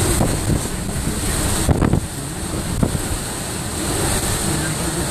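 Hurricane-force wind in a major hurricane's eyewall rushing steadily and gusting, buffeting the microphone, with a few short thumps partway through.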